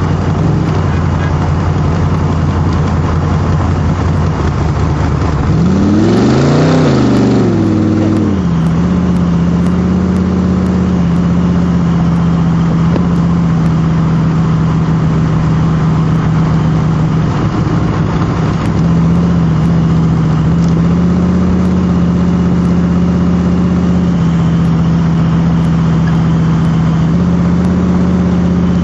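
Cobra replica roadster's V8 engine running at a steady cruise, heard from inside the car; about six seconds in it revs up and drops back down, and near nineteen seconds in its pitch steps up a little.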